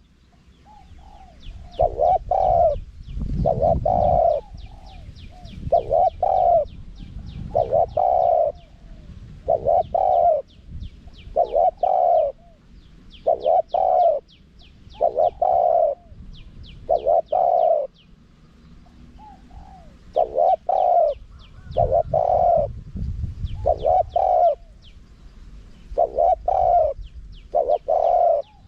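Spotted dove cooing over and over, short deep coos coming about every one and a half to two seconds, loosely in pairs and threes: the male's calling song, used as a decoy call to draw wild doves in. Rapid thin chirps from smaller birds run above it, and a low rumble comes twice.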